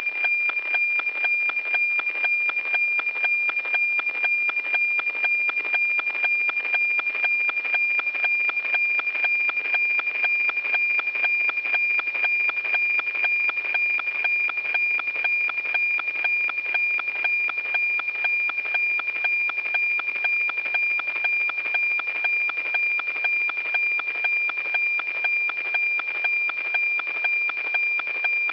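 NOAA-18 weather satellite APT signal from a radio receiver's audio: a steady high tone with a fast, even ticking, the sound of the image being sent line by line.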